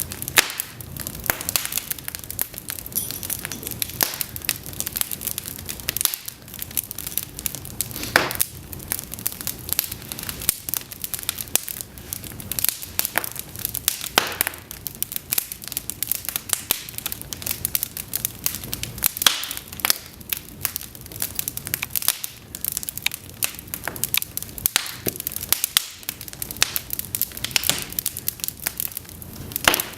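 Cedar logs burning in an open fireplace: a steady bed of fire noise under dense, irregular crackling, with a few louder sharp pops scattered through.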